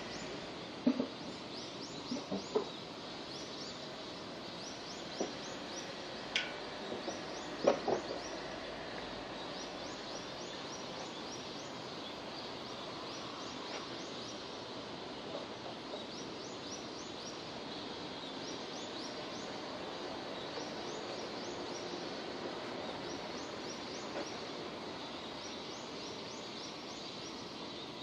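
Steady rain falling, with a few sharp drips or knocks in the first eight seconds and faint, rapidly repeated high chirps over it.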